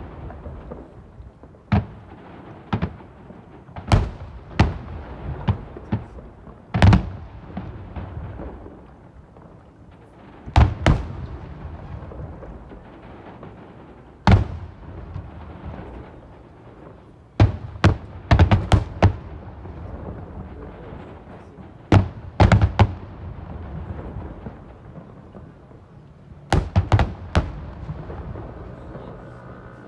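Fireworks display with aerial shells bursting at irregular intervals, each a sharp bang followed by a rumbling echo. Several quick runs of bangs come in close succession.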